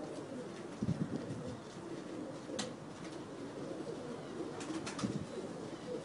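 Birds calling with low, irregular calls, broken by a few short sharp clicks.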